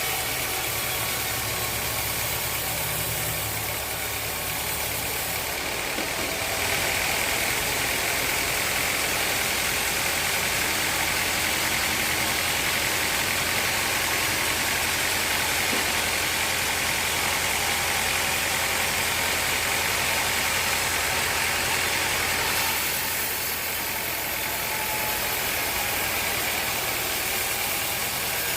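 Sawmill machinery running steadily. For about sixteen seconds in the middle it grows louder, with a higher-pitched whine.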